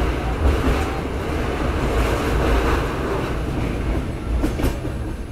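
Indian Railways express train running along the track, heard from a moving coach: a steady rumble of wheels on rails, with a few sharp clicks about four and a half seconds in.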